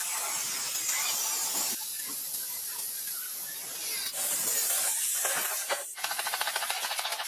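Two long bursts of hissing, with a fast, even rattle starting near the end.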